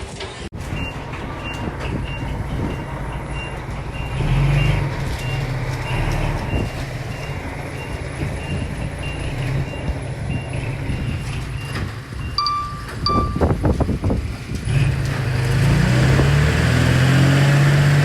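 Heavy diesel construction machine running, with a reversing alarm beeping about twice a second. Two short horn beeps come about two-thirds of the way through, then the engine revs up and runs louder near the end.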